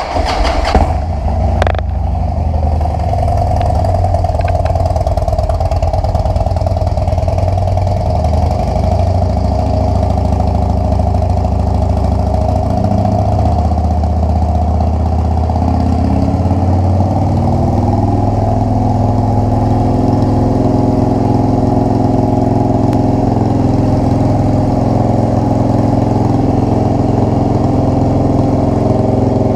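Harley-Davidson Dyna Super Glide's air-cooled V-twin engine starting up and then idling steadily. It is being run after an oil change so the fresh oil fills the oil filter and the level can be checked.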